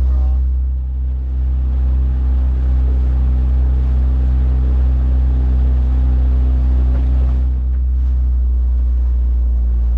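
A 9.8 hp outboard motor running steadily with a small boat underway, heard from aboard, with water and wind noise over it. The level dips briefly about a second in and again near the end.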